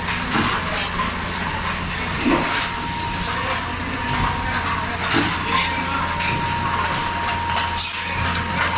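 A 5-gallon cap foam-insert machine running with a steady hum and a constant tone, with frequent light mechanical clicks and knocks from its working cycle. Short hisses break in a few times, the clearest about two seconds in.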